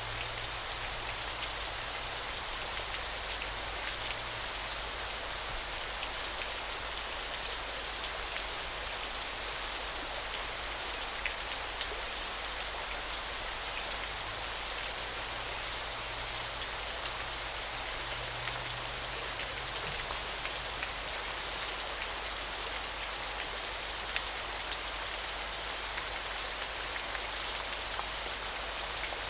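Steady hiss of running water, with a thin high buzz that grows louder for several seconds in the middle.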